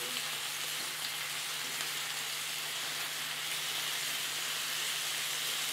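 Raw chicken pieces frying in oil in a pan, with a steady sizzle.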